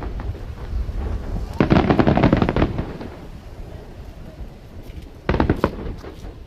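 Aerial fireworks bursting: a dense cluster of bangs and crackles about two seconds in, then a shorter cluster just after five seconds, with a low rumble of echoing booms between them.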